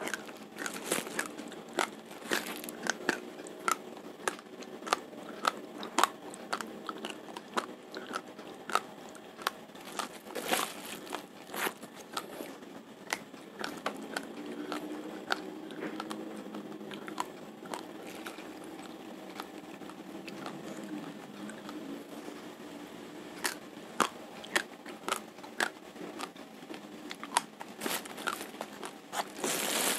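A mouthful of raw, uncooked Rojolele rice crunching between the teeth as a person chews. The grains crack sharply, several times a second, all through.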